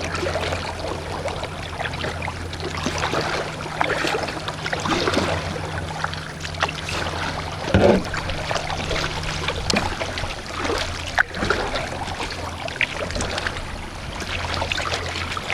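Kayak paddle dipping and pulling through the water, with splashes and trickling drips at irregular intervals of about a second, over a steady low hum.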